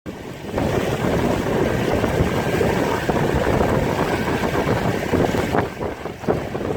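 Steady rush of wind and water on a moving boat, with wind buffeting the microphone. It eases briefly near the end.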